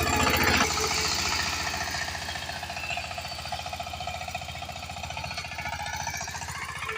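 Power tiller diesel engine running with a steady, rapid knocking beat. It is louder and rougher for about the first half second, then settles to an even run.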